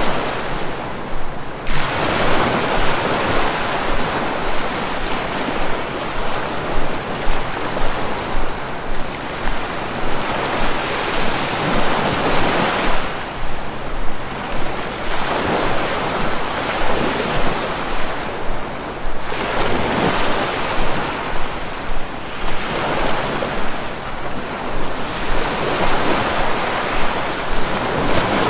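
Sea waves breaking and washing ashore: a continuous rush of surf that swells and eases every few seconds, with short lulls between breakers.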